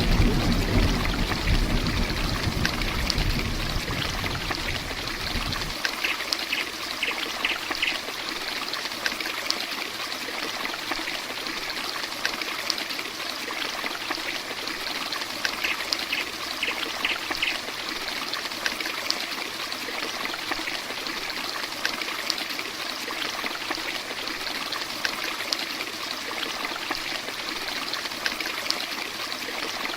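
Heavy rain falling steadily, an even hiss of water. A low thunder rumble dies away over the first few seconds. Short faint high chirps come twice.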